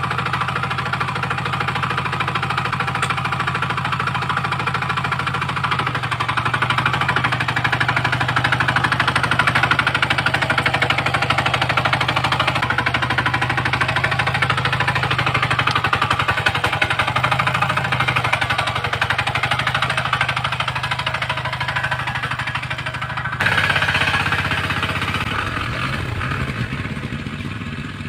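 Hand tractor engine running under load as its rotary tiller churns the soil, with a fast, steady pounding beat. About five seconds before the end it suddenly gets louder and brighter, then fades away.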